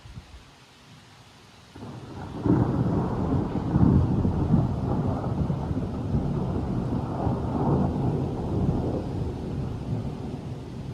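A thunderclap: a roll of thunder breaks suddenly about two seconds in and rumbles on, swelling a few times, then slowly dies away.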